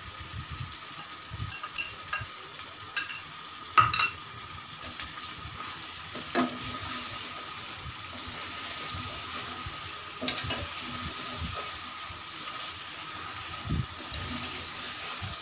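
Chicken and tomato masala sizzling in an aluminium karahi while a metal spoon stirs it, with clicks and scrapes of the spoon against the pan; the loudest knock comes about four seconds in and the sizzle grows louder in the middle.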